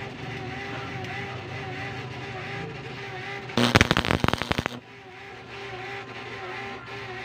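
A loud, rapid burst of sharp knocks lasting about a second, about halfway through, over a steady low background.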